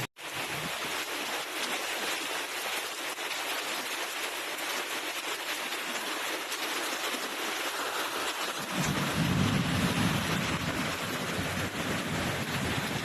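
Rain falling steadily, an even hiss of drops. A low rumble joins about nine seconds in.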